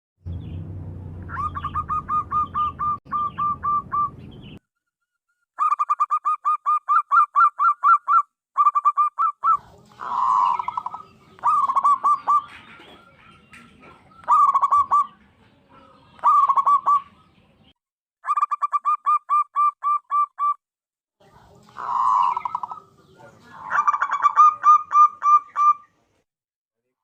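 Zebra doves calling: bouts of quick, evenly spaced cooing notes, several a second, alternating with longer rolling coos, each bout breaking off abruptly. A low hum sits under the first bout.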